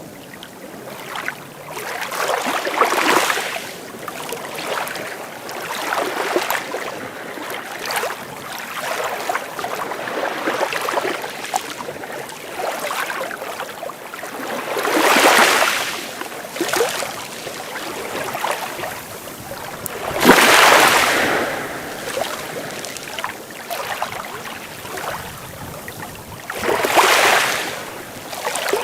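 Sea waves breaking and washing ashore, a steady hiss of surf with a louder wave surging in every few seconds, the biggest three about 15, 20 and 27 seconds in.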